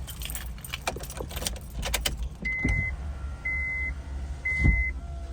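Keys jangling and rustling, then, from about halfway, a car's warning chime beeping steadily about once a second, with a couple of low thumps between the beeps.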